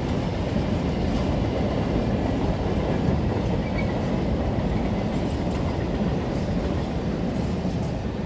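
Freight train wagons rolling past at speed, their wheels running on the rails in a steady, heavy noise that eases slightly near the end.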